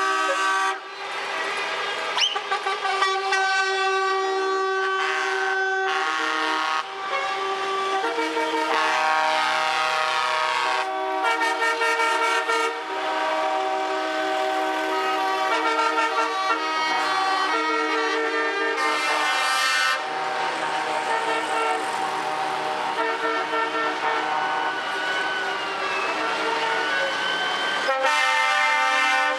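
Truck air horns sounding almost without pause, several horns of different pitches blaring over one another and changing every few seconds.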